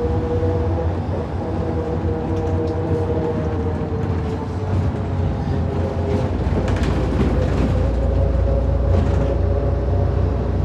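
Inside a MAZ 105 city bus under way: the engine and drivetrain run with a steady whine over a low rumble. About six seconds in the rumble deepens and the whine climbs in pitch as the bus pulls harder.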